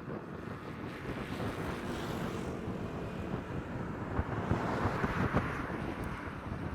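Wind buffeting the microphone, an uneven rumbling rush with no clear tones.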